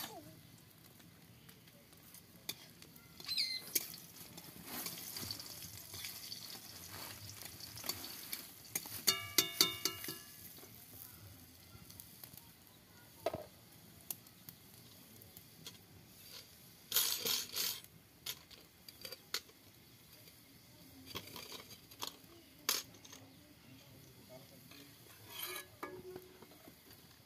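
Spice paste sizzling in oil in a steel wok, with a metal ladle scraping and clinking against steel cookware. A cluster of clanks with a ringing metal tone about nine to ten seconds in, and a few sharper scrapes later on.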